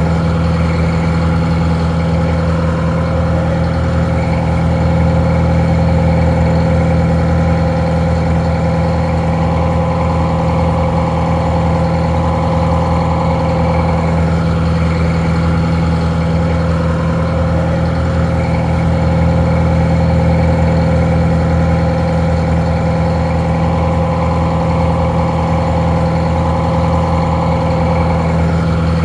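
Detroit Diesel 4-71 two-stroke inline four-cylinder diesel engine idling steadily.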